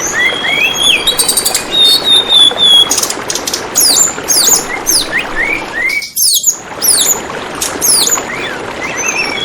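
Tledekan bambu bird singing: quick bursts of high, sharply falling whistles and short rising chirps over a steady trickle of flowing water. The sound briefly drops out a little after the middle.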